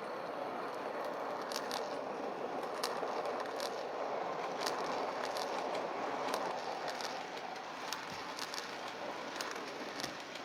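N-gauge model train of the Odakyu 5000 series running on model track: a steady whirring rumble of motor and wheels, with scattered sharp clicks from the wheels over rail joints. It grows a little louder in the middle as the train passes closest.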